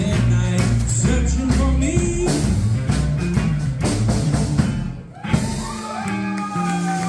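A band playing the closing bars of a country song, with bass and drum hits, breaking off briefly about five seconds in and then landing on a long held final chord.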